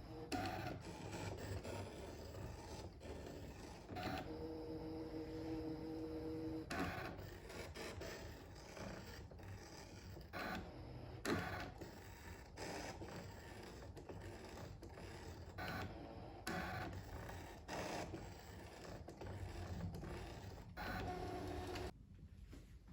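Brother ScanNCut SDX1500 cutting machine at work cutting felt: its motors whir in short, uneven moves with clicks, and at times give a steady whine. It goes quiet about a second before the end.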